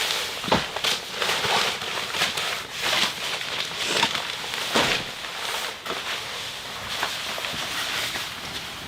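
Irregular rustling with scattered sharp cracks and taps, several a second.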